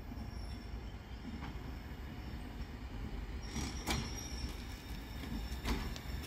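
Electric multiple unit approaching slowly on the track: a low rumble, with a thin high wheel squeal coming in about halfway and two sharp clacks from the wheels.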